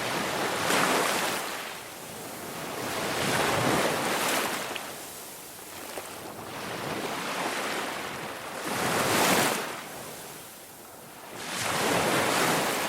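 Ocean waves washing in, a rushing hiss that swells and fades every few seconds, about four surges.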